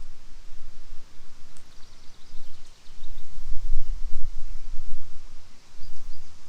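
Wind gusting on the microphone: a low rumble that swells and fades, loudest about halfway through.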